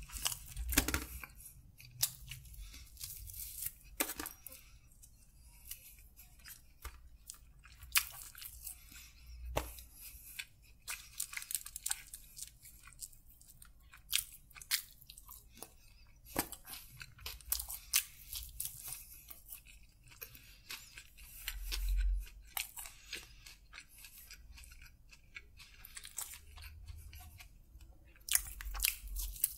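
Close-miked eating: chewing and crunching of chicken kebab and bread, with irregular small crackles as fingers tear pieces from the tray. A soft low thump about two-thirds of the way through.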